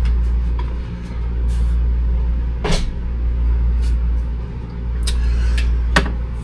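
A steady low hum with four short sharp knocks and clicks, the first about three seconds in and three more close together near the end, as things are moved out of the way.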